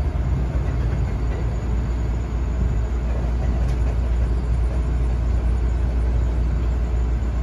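Steady low rumble and hiss of a Tokaido Shinkansen train at a station stop, with no distinct events.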